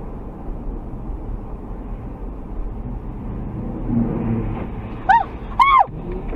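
Steady low rumble of a car's engine and road noise heard inside the cabin. About five seconds in, two short high-pitched calls rise and fall.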